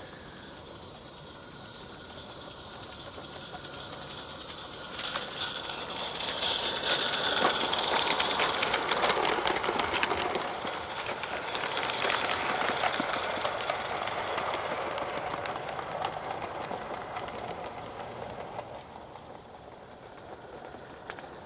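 Live-steam garden-scale locomotive and its train passing close by, with rapid exhaust chuffs and steam hiss. The sound swells over several seconds and then fades as it moves away.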